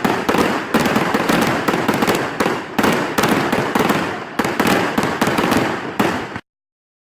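Fireworks going off in a dense, rapid run of bangs and crackles, many a second, that cuts off suddenly about six seconds in.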